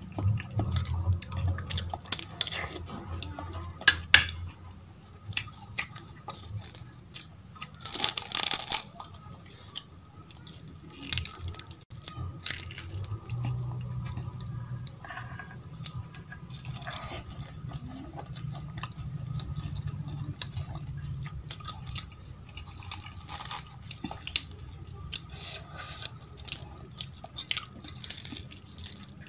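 Chewing and crunching of crisp fried kachori and potato curry, with wet squishing mouth sounds. Scattered clicks and scrapes of a spoon against a steel bowl.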